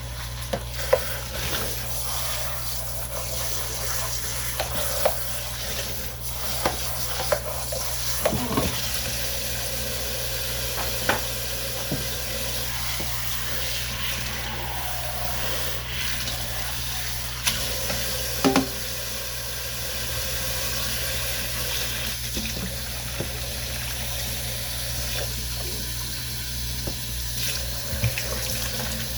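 Kitchen tap running into a sink while a cat's food bowl is washed, with a few sharp knocks scattered through.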